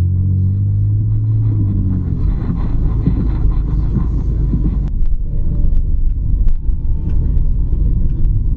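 BMW E46 wagon driving, with the engine and road giving a steady low rumble; a clear engine tone stands out in the first two seconds and then sinks into the rumble. There is one sharp click about five seconds in, followed by faint scattered ticks.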